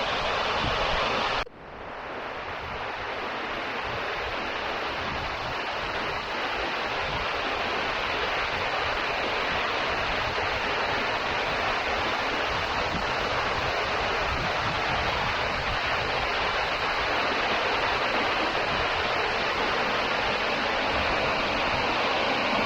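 Waterfall rushing, a steady roar of falling water. About a second and a half in the sound drops out sharply, then swells back over the next few seconds.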